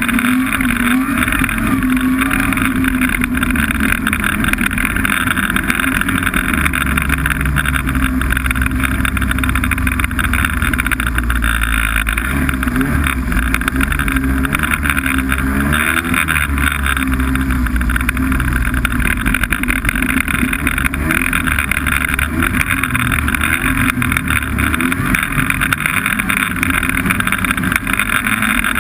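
Snowmobile engine running steadily on the move, its pitch wavering up and down a little partway through.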